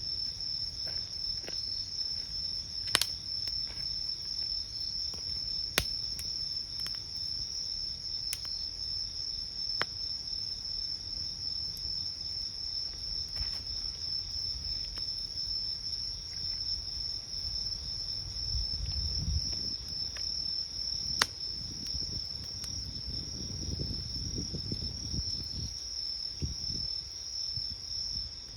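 Crickets chirring in a steady high-pitched drone, with a few sharp pops from a crackling wood campfire and a low rumble for a few seconds past the middle.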